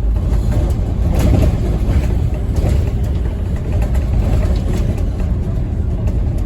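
Scania N230UD OmniCity double-decker bus heard from inside while under way: a steady low diesel engine rumble with road noise, and a few brief rattles.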